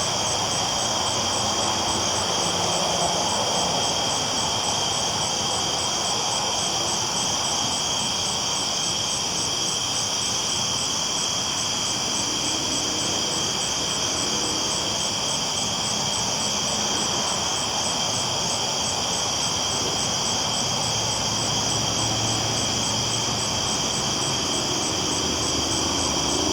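Train rolling steadily along the tracks: a continuous, even rumble with a steady high hiss and a fast, even pulsing high above it.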